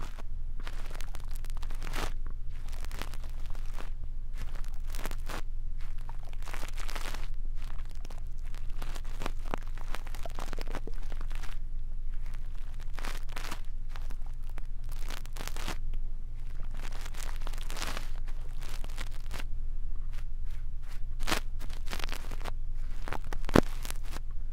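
Brush bristles scratching and sweeping against a microphone in irregular strokes, over a steady low hum.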